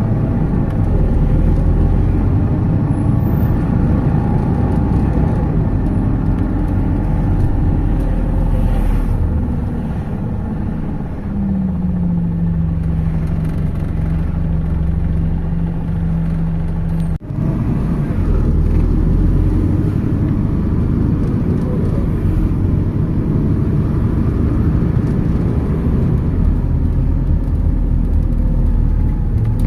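MAZ 206 city bus riding along, its engine and road noise forming a steady low rumble. For several seconds in the middle it runs quieter, with a steady hum. Just after that there is a momentary dropout, then the rumble resumes.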